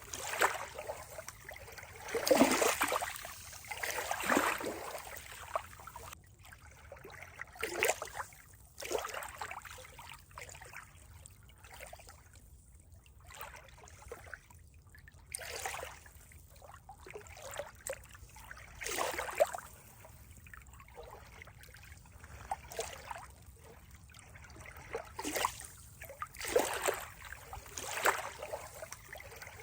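Water trickling and splashing in irregular surges, some a second apart and some several seconds apart, with quieter spells between.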